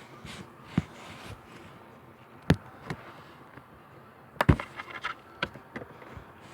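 A series of sharp knocks and clatters: single knocks about a second in and at two and a half and three seconds, the loudest cluster of rapid clatters around four and a half seconds, then a few more.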